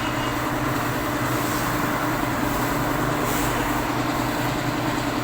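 Steady mechanical hum with an even low drone and a constant tone.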